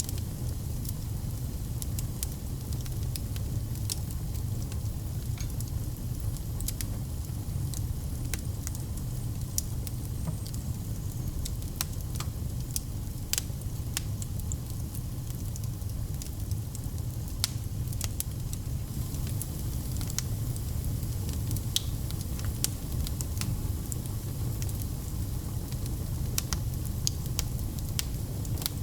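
Fireplace fire burning: a steady low rumble of flame with frequent, irregular sharp crackles and pops.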